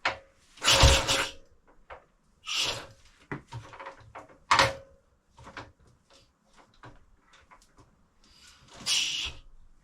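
Kick-start attempts on a 1928 Velocette KNS 350cc overhead-cam single: several separate clunks and short rushes as the kickstart is worked. The engine does not fire.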